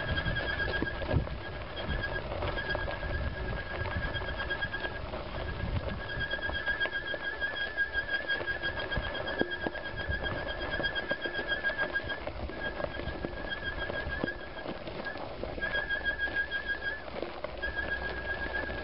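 A dirt bike being ridden over rough ground: a high, wavering whine comes and goes every few seconds, over a low rumble and irregular knocks.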